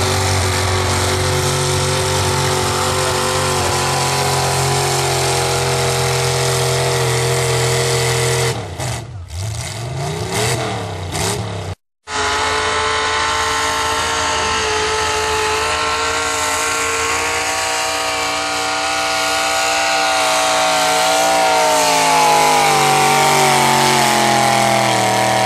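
Pulling truck's engine running hard at steady high revs; about eight seconds in its pitch sweeps up and down unevenly, there is a brief break in the sound, then an engine runs again with its pitch climbing steadily over the last several seconds.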